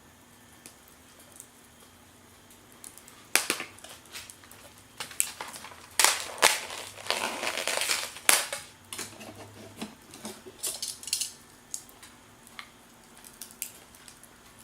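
Cooking gear being handled: a sharp knock, then a couple of seconds of clattering with scraping and crinkling, followed by scattered light clicks and taps.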